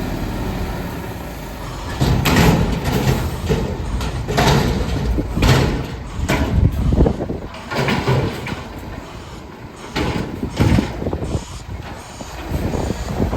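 Garbage truck running, with a string of loud irregular bangs and hissing bursts starting about two seconds in.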